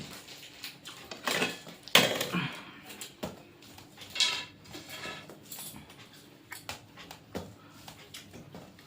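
Dishes clinking and scraping during a meal: scattered short knocks and scrapes of plates and bowls, loudest about two seconds in.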